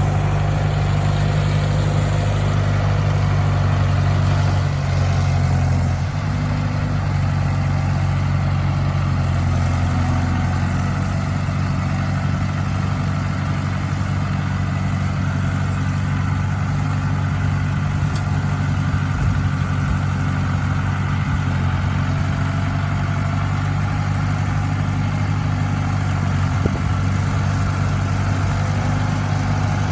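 International Harvester 574 tractor engine running steadily, its note shifting slightly and dropping a little in level about six seconds in.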